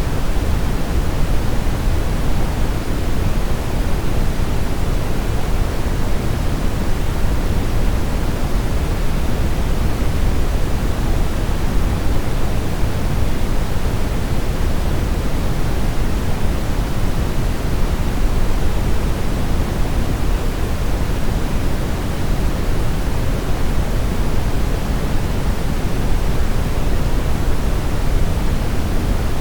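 Steady brown noise: an even, deep rushing hiss, strongest in the low end, with no changes or breaks.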